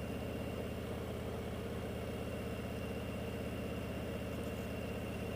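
Motorcycle engine running steadily at low speed, with an even, rapid beat.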